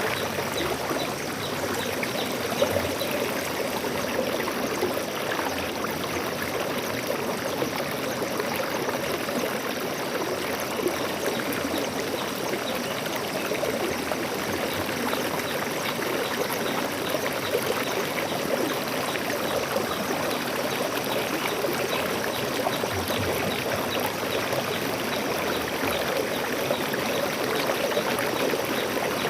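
Stream water flowing steadily, an even, unbroken rush and trickle.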